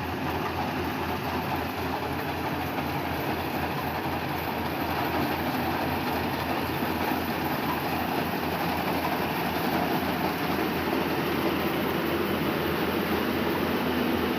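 Rice harvesting machine running steadily: an engine's low throb under a steady mechanical rush, growing slightly louder.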